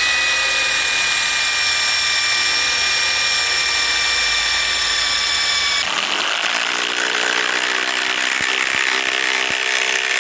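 Ryobi PSBIW25 cordless compact impact wrench driving a large lag bolt into wood under heavy load. It runs with a steady high whine for about six seconds, then drops in pitch and turns into a rougher, lower rattle as the impact mechanism starts hammering.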